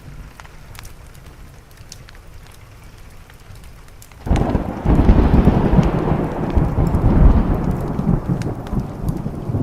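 Steady rain with faint scattered ticks; about four seconds in, a sudden loud thunderclap breaks into a long, deep rumble that slowly fades.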